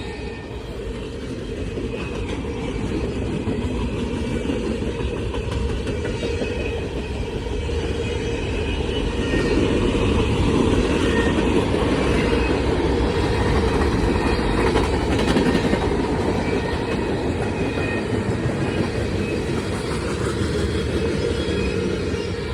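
Freight cars of a CSX manifest train rolling past, a steady rumble of wheels on rail with clickety-clack over the rail joints, a little louder in the middle.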